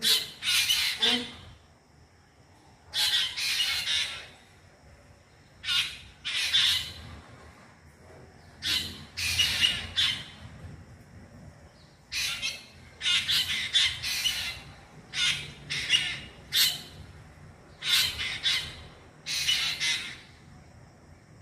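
A bird giving harsh, squawking, speech-like calls in about eight short bouts, one every couple of seconds.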